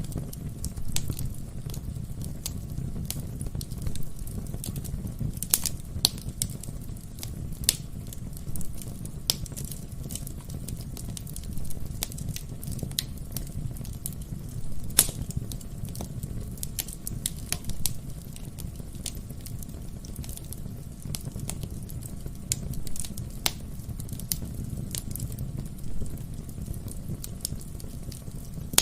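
Wood fire burning in a fireplace: a steady low rumble of flames under irregular crackles and sharp pops from the burning logs, a few louder pops standing out.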